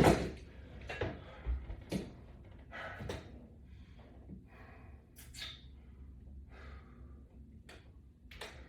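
A man breathing hard, with short forceful exhales about once a second that thin out later: exertion breathing through resistance-band reps. A sharp thump comes right at the start.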